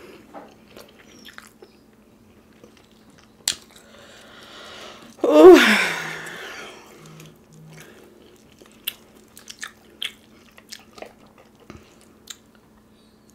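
Close-miked eating sounds: chewing, lip smacks and small mouth clicks scattered throughout. About five seconds in comes one loud vocal sound that falls in pitch.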